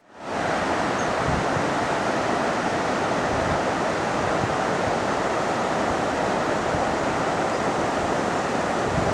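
Steady rush of a flooded river's fast-flowing water, fading in over the first half second.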